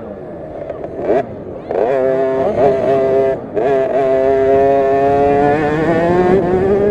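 KTM SX50 50cc two-stroke minibike engine revving hard, the throttle shut at the start and again briefly about three and a half seconds in, then held at high revs.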